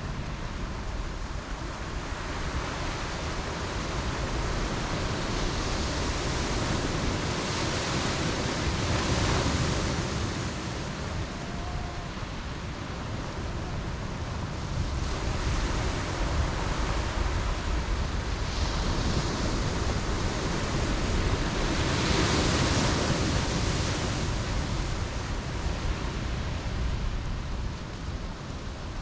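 Ocean waves breaking on the beach: a steady wash of surf that swells twice, with a constant low rumble beneath it.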